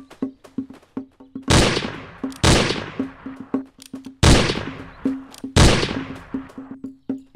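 Four revolver shots, each with a long echoing tail, the middle two about two seconds apart and the others about a second. A quick, even wood-block beat from the music ticks along underneath.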